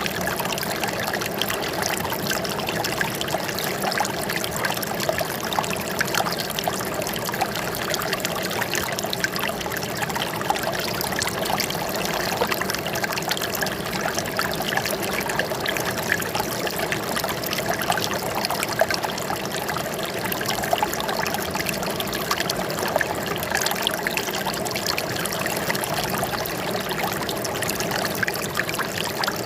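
Running water trickling and babbling steadily, like a small stream flowing over stones.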